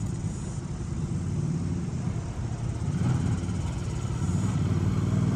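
Motorcycle engine running steadily and growing gradually louder as the bike approaches.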